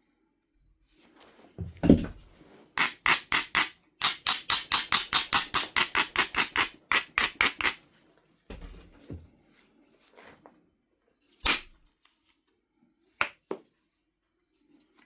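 Flintknapping on a Knife River flint biface: a thump a little before two seconds in, then a quick run of about twenty short, even stone strokes at about five a second, then a few scattered sharp clicks.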